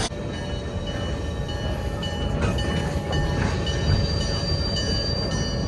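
Passenger train running along the rails, heard from aboard: a steady low rumble with a few thin, steady whining tones above it.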